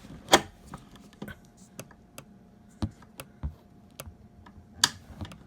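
About a dozen scattered sharp clicks and light knocks of a bolt and metal buggy frame parts being worked by hand into a tight-fitting hole, with two louder knocks, one near the start and one near the end.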